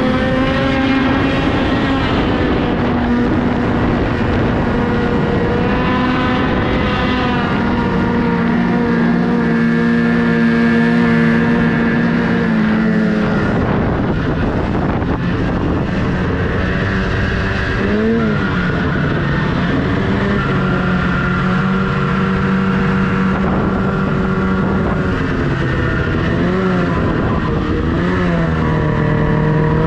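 Snowmobile engine running under throttle, its pitch holding and then shifting as the throttle changes, with a few quick dips and recoveries in revs near the end, over rushing noise.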